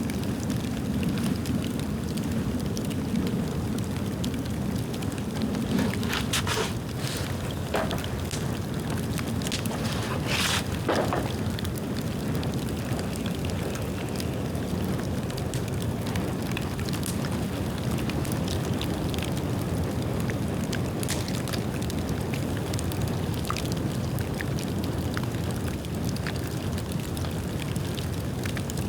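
Bonfire of dead bamboo burning: a steady low rush of flame with scattered crackles and pops, a few louder cracks about six and ten seconds in.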